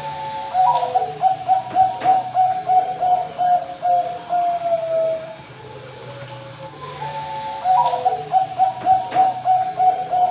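Zebra dove (perkutut) of Bangkok show stock singing its cooing song: two phrases of quick, evenly spaced coos, each closing on a longer falling note. A steady low hum runs underneath.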